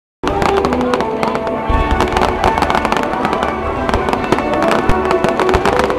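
Aerial fireworks bursting in dense, loud crackling and popping, many reports a second, with music playing underneath throughout.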